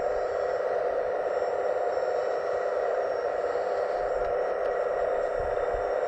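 Scale RC hydraulic excavator's pump motor running steadily with an even whine, with a few faint low thuds about four and five and a half seconds in.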